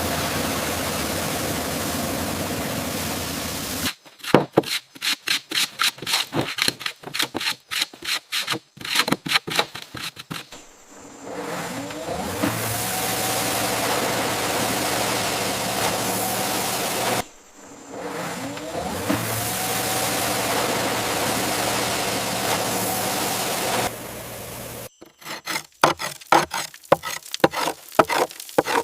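Restoration work: rapid scraping and knocking strokes alternating with a power tool that spins up with a rising whine and then runs at a steady pitch. The tool spins up twice, and each run stops abruptly.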